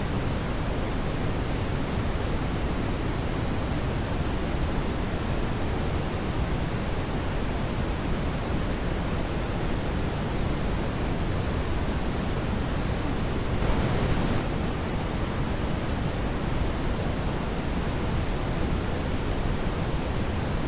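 Steady brown noise: an even, deep hiss with no pitch or rhythm. About two-thirds of the way through, the level rises slightly for under a second.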